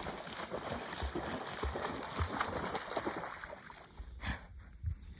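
Water splashing and sloshing as a retrieving dog moves back through the water, easing off after about three and a half seconds, with a few light knocks near the end.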